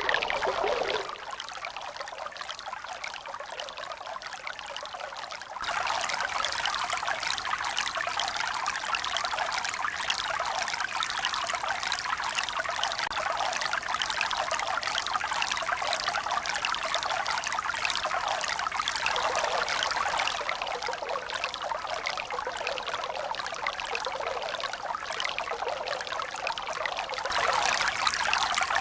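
Steady rush of running water, like a trickling stream. It has no slow swells, and its level changes suddenly three times: it drops about a second in, jumps back up around six seconds in, and rises again near the end.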